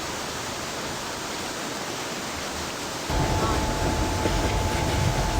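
Train noise: an even rushing sound, then about three seconds in an abrupt switch to a louder low rumble with a steady high whine running over it.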